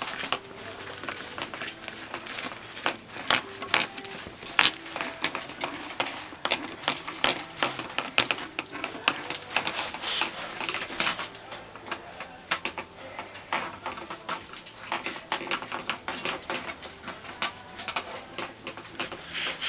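A dog licking food off a dish, a quick, irregular run of lapping and clicks as the dish knocks and shifts under its tongue and paws.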